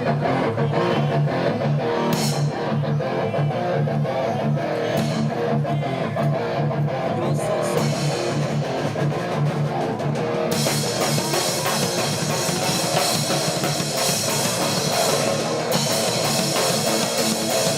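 Hardcore band playing a guitar riff over bass and drums. About ten seconds in the cymbals come in hard and the band plays fuller and louder in the top end.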